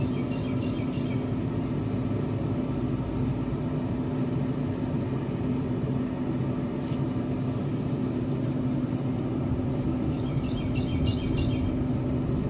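Steady low mechanical hum with one constant tone and a rumble beneath it. Short runs of rapid high chirping come in during the first second and again near the end.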